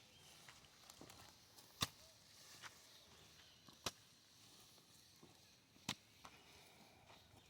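A digging tool chopping into soil to dig planting holes: three sharp strikes about two seconds apart, with fainter knocks between them.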